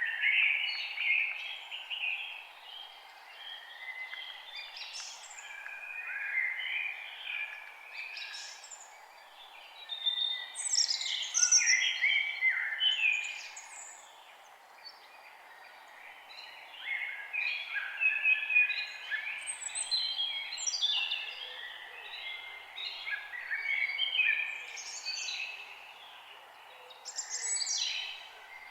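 Several songbirds singing and chirping in overlapping quick phrases and trills, with a brief lull about halfway through, over a steady faint hiss.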